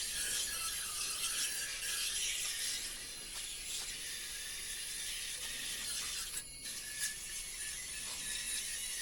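Coil cleaner being sprayed onto an air handler's evaporator coil: a steady spray hiss with a brief break about six and a half seconds in.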